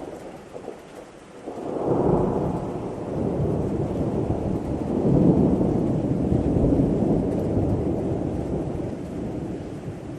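A long roll of thunder over steady rain. The rumble builds about a second and a half in, swells again midway and slowly dies away near the end.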